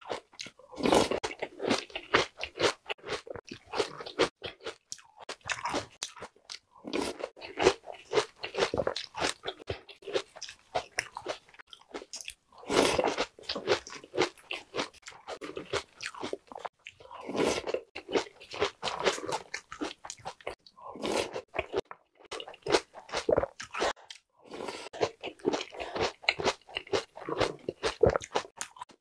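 Close-miked crunching and chewing of Jolly Pong puffed-wheat cereal and Oreo cookies soaked in milk: dense crackly bites in runs, with short pauses between mouthfuls.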